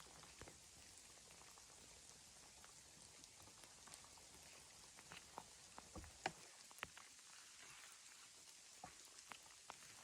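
Near silence with faint, scattered small ticks and clicks, the sharpest a little after six seconds in.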